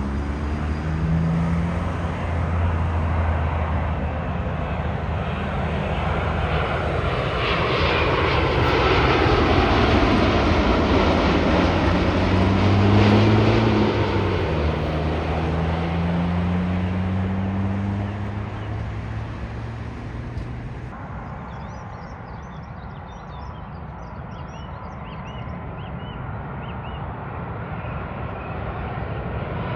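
Jet engines of a Boeing 787-9 on approach, growing louder as it comes over and dropping in pitch as it passes about 13 s in, then fading. After a sudden change about 21 s in, quieter with short high chirps, and the engines of an approaching Airbus A330 build again near the end.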